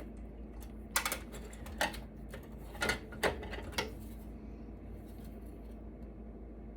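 Hard clicks and clatter of electronic scrap, such as circuit boards and metal parts, being handled, about half a dozen sharp knocks between one and four seconds in. A steady low hum runs underneath.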